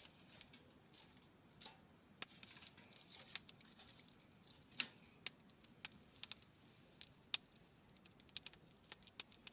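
A wood fire crackling faintly: scattered, irregular small pops and ticks with no rhythm.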